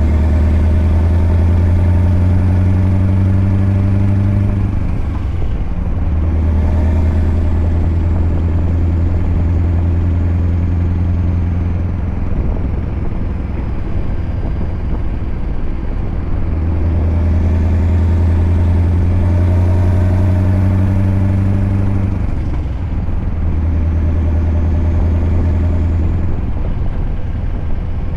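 Scania R580's V8 diesel with a straight-piped 8-inch exhaust, running with a loud, deep, steady note. The note drops away and comes back several times: about 5 s in, for a few seconds around the middle, and briefly twice near the end.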